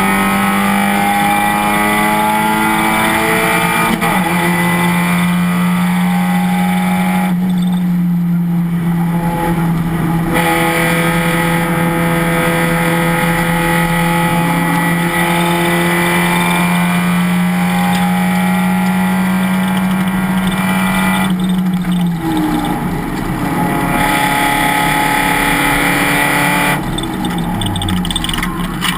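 Race car engine running hard at steady high revs, its pitch stepping down once about four seconds in and then holding for a long stretch. About 22 seconds in the steady tone breaks up, and near the end the pitch falls as the car slows.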